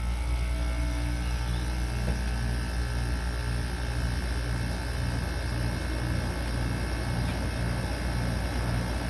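Window air conditioner running: a steady low hum under even fan noise.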